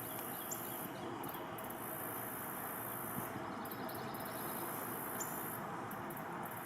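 Insects, crickets or similar, trilling in a high, steady chorus that drops out briefly every second or two, over a steady background hiss. Two short high chirps come about half a second in and again near the end.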